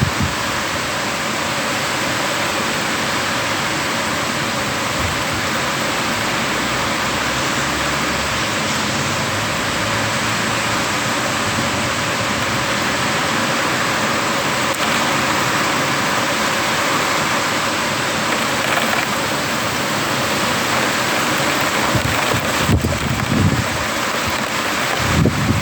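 Steady rain falling during a thunderstorm, with a few low rumbling thumps near the end.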